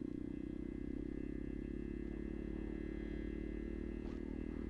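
Kuba Black Cat motorcycle engine running steadily at a constant pitch, with no revving.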